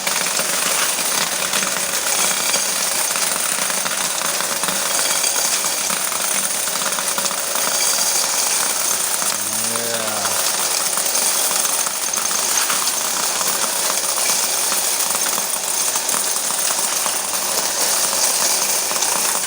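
Electric coin counting machine running with a heavy load of quarters, the coins clattering rapidly and continuously through it.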